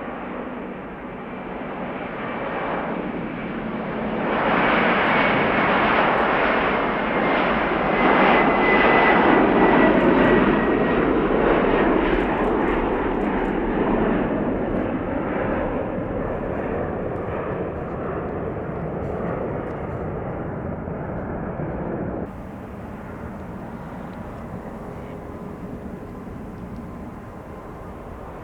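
Jet airliner passing close by, its engine noise swelling to a loud peak and then fading away, with a thin whine that slides slowly down in pitch as it goes past. The noise drops suddenly about 22 seconds in.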